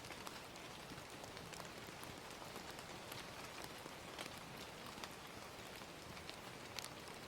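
Gentle rain as a steady, quiet hiss, with the sharp, irregular pops of a crackling fire scattered through it.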